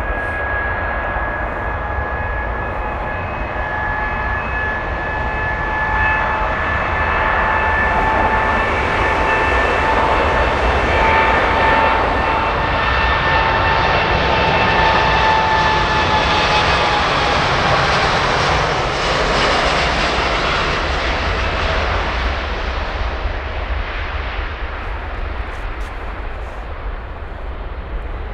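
Jet airliner's engines passing by: a whining note with several steady tones over a rushing noise that builds to a peak mid-way and then fades. The whine drops slightly in pitch as the aircraft goes past.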